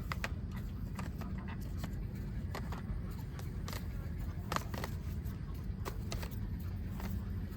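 A steady low engine-like hum with irregular sharp clicks and light scrapes over it, the strongest click about four and a half seconds in.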